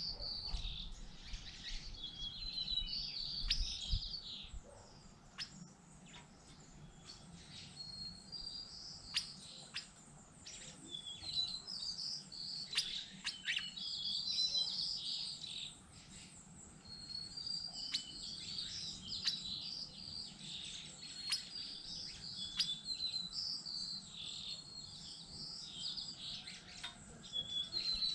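Songbirds singing: high, warbling phrases a few seconds long, repeated every few seconds, with short sharp chips in between.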